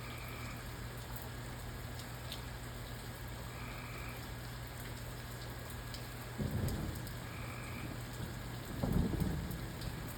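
Steady rain falling, with thunder rumbling low in the background, starting about six seconds in and swelling again near the end.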